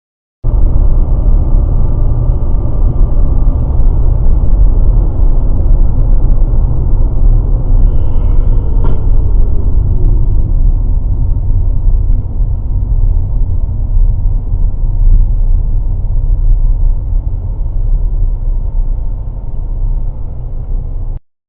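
Steady low rumble of a moving car's engine and road noise picked up by a dash cam, cutting in abruptly and cutting off abruptly near the end.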